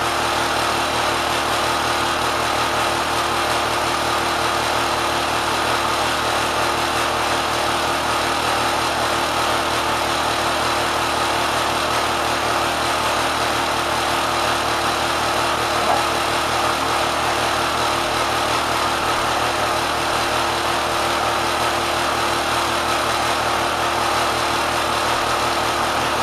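Kenmore sewing machine driven by a swapped-in 3/4 hp electric motor, running steadily at high speed, pushed well past its factory RPM. A single short tick about sixteen seconds in.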